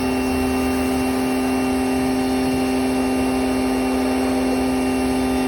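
A motor running steadily, a constant unchanging hum with several fixed tones over a hiss, typical of the car-washing or car-cleaning machine at work.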